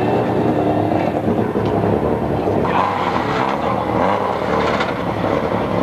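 Peugeot 306 Group A rally car's 2-litre engine running steadily at low revs.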